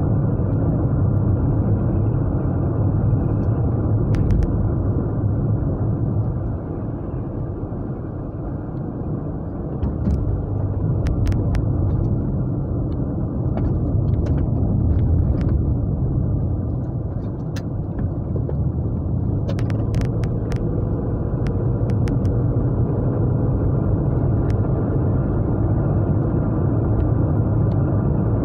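Japanese V6 car engine and road rumble heard from inside the cabin while driving, a steady low drone. It eases off a little twice, about a quarter of the way in and again past the middle, then picks back up. A few light clicks or rattles come through now and then.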